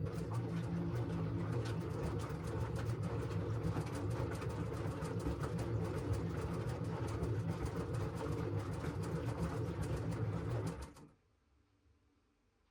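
LG washing machine drum turning the load during the wash cycle: a steady low motor hum with a busy rattle of water and clothes that stops suddenly about eleven seconds in as the drum pauses.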